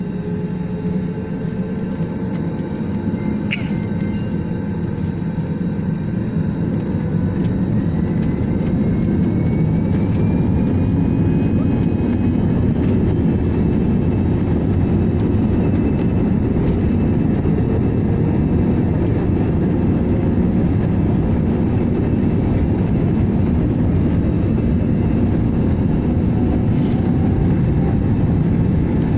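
Jet airliner engine noise: a heavy steady rumble that grows louder over the first ten seconds or so and then holds, with faint whines slowly rising in pitch.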